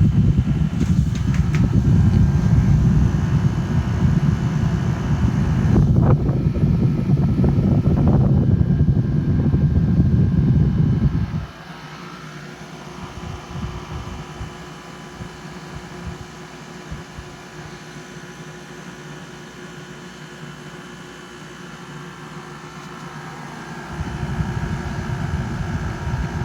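UberHaus air conditioner running with a steady hum holding several constant tones. For about the first eleven seconds a heavy low rumble covers it, then cuts off abruptly; it comes back a couple of seconds before the end.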